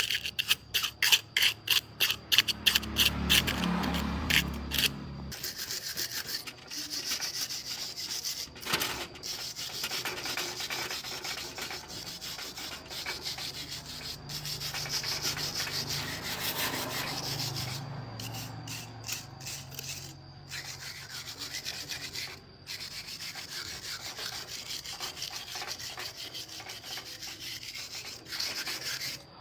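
Hand sanding: quick back-and-forth strokes, about three a second, for the first few seconds, then a steadier, continuous scraping rub.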